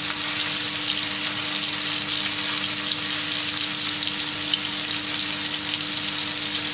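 Marinated chicken tikka skewers frying in butter and oil in a nonstick pan over a high flame: a steady, even sizzle with fine crackling. A faint steady hum runs underneath.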